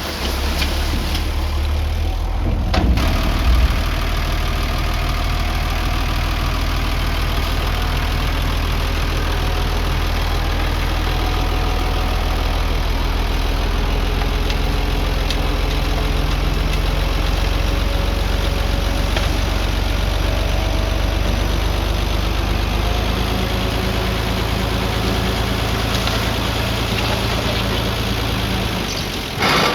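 Diesel engine of an earth-moving machine running steadily at low revs, with a brief louder clatter about three seconds in.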